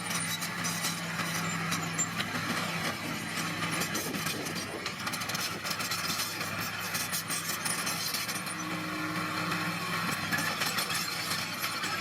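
Small bulldozer's engine running steadily under load, with continuous clanking and scraping as its tracks and blade push crushed stone and soil.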